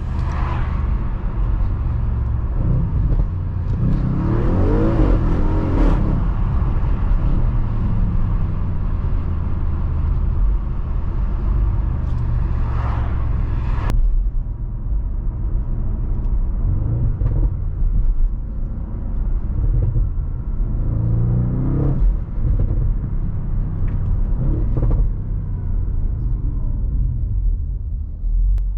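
The 2015 Audi RS6 Avant's twin-turbo V8 running while the car is driven, its note rising as it accelerates a few times, over a steady low road rumble.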